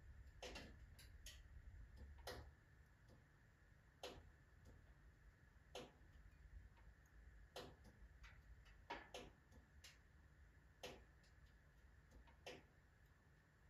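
Wood fire in a wood-burning stove crackling faintly, with irregular sharp pops and snaps from the burning logs, some in quick clusters, over a low quiet rumble of the fire.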